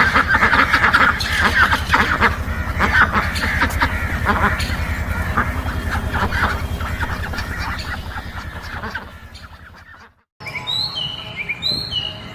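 A flock of birds calling loudly and continuously, fading away about nine seconds in. After a brief break, short high chirping calls follow.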